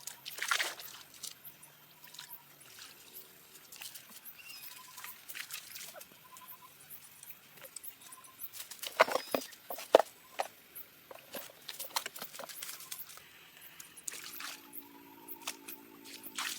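Irregular water splashes and drips with sharp slaps, the loudest about nine to ten seconds in.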